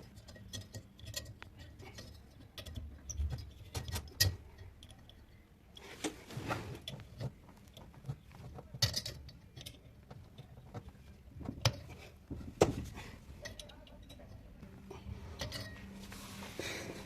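Scattered clicks, taps and light metallic knocks at irregular spacing, from small metal parts and tools being handled while a hot air oven's fan assembly is put back together.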